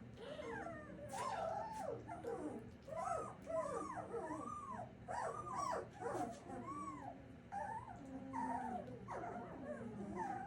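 Puppies whining and yipping: a rapid string of short rising-and-falling whimpers, several calls a second.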